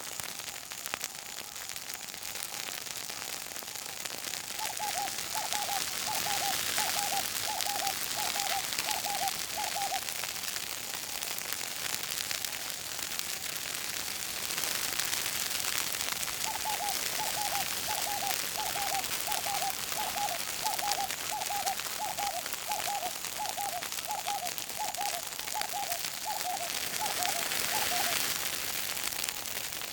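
Bushfire crackling and hissing as vegetation burns, swelling and easing. Over it a bird calls a long run of short, even notes, about two a second, twice.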